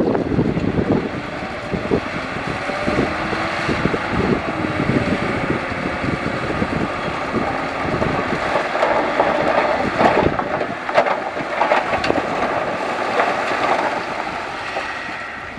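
Heavy earthmoving machinery (bulldozer and dump trucks) running steadily, with several sharp knocks about two-thirds of the way through.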